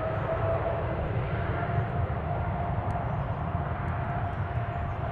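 Jet airliner's engines running: a steady rumble with a whining tone that rises slightly at first and then holds.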